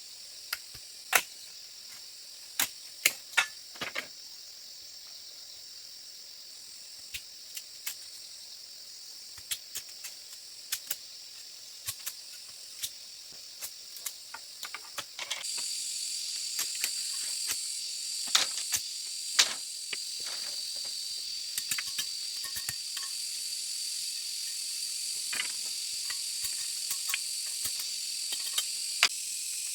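A steady high-pitched chorus of forest insects, crickets or cicadas, with scattered sharp knocks and taps, the loudest ones in the first few seconds. About halfway through, the insect chorus becomes abruptly louder, with a steady high whine.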